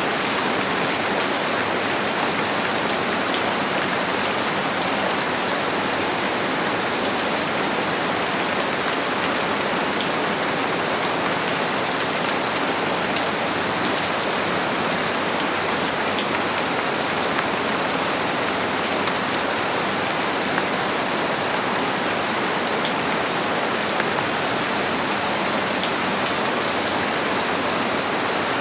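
Steady rain falling, a continuous hiss with many fine individual drop ticks and no thunder.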